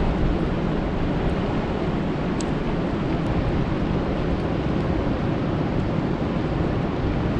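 Steady rain falling on a lake's surface: a dense, even rush heaviest in the low end, with a few faint sharp ticks of single drops.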